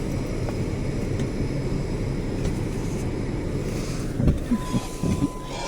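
Steady low rumble of a parked car running, heard from inside the cabin. About four seconds in comes a thump, then a few knocks and a short steady beep.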